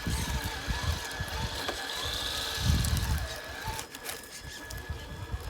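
Traxxas TRX-4 RC crawler's motor and geared drivetrain whining as it crawls, the pitch rising and falling with the throttle, over irregular low rumbling.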